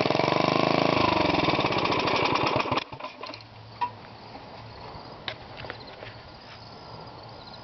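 Briggs & Stratton 5 hp single-cylinder engine idling through a homemade FloMastr-type muffler, with steady, even exhaust pulses. The engine sound cuts off suddenly about three seconds in, leaving only a faint hum and a few light clicks.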